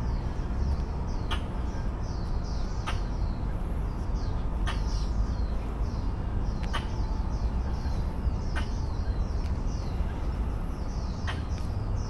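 Small birds chirping: short, falling high-pitched calls repeated several times a second, over a steady low rumble, with a sharp click every second or two.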